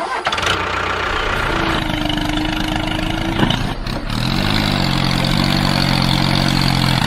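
Small engine running; about four seconds in its pitch rises briefly and then settles into a steady idle.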